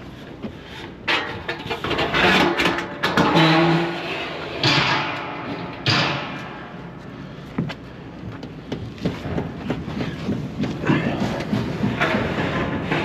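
Irregular knocks, bangs and scraping of hard objects being handled and moved.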